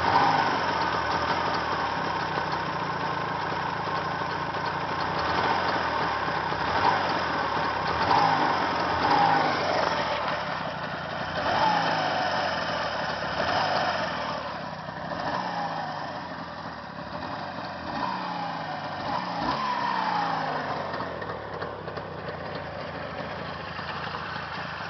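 Newly rebuilt engine idling, its revs swinging up and back down several times before settling.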